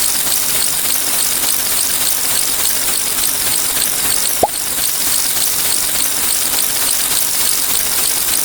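A cartoon pop sound effect, a single quick upward-sweeping blip about four and a half seconds in, over a loud, steady hiss.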